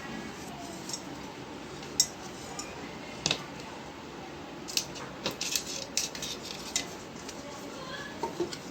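Hard objects being handled, giving a scattering of sharp clicks and knocks: a loud single about two seconds in, a double a second later, then a quick cluster of light taps, and two faint ones near the end.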